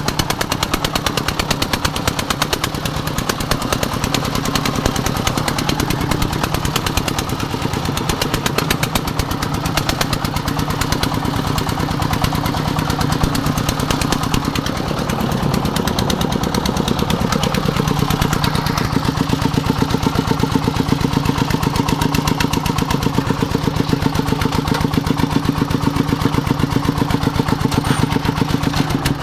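Công nông farm truck's single-cylinder diesel engine running steadily, a fast, even chugging of rapid regular beats.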